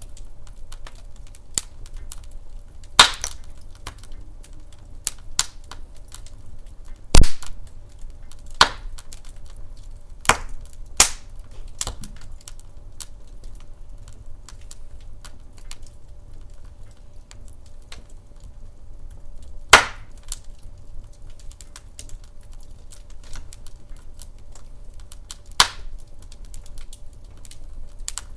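Wood fire in a fireplace crackling, with many small irregular snaps and several sharp loud pops scattered through, the loudest about seven seconds in, over a low steady rumble.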